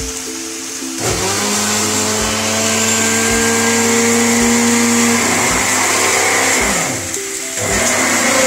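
Marinated chicken pieces sizzling in hot oil in a pan, a dense hiss that grows loud about a second in and dips briefly near the end. Background music with sustained tones and a steady beat plays over it.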